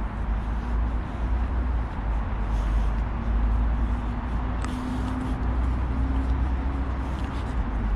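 City street ambience: a steady wash of traffic noise with a deep low rumble, a faint humming tone that comes and goes, and a few small clicks.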